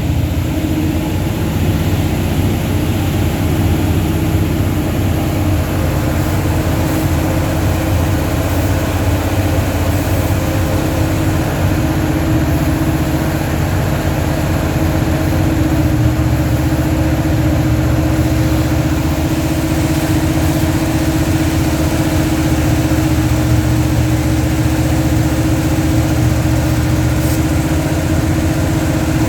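Dodge 360 LA small-block V8 running steadily at idle. The owner suspects a vacuum leak, such as an intake manifold leak, behind its poor running.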